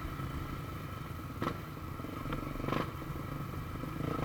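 Motorcycle engine running steadily while riding, with two short bursts of noise about a second and a half and nearly three seconds in.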